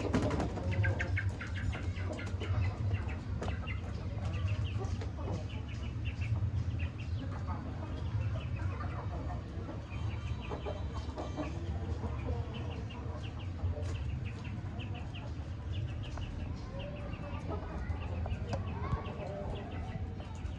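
A flock of Aseel chickens clucking and calling, many short calls repeated in quick runs, over a steady low hum.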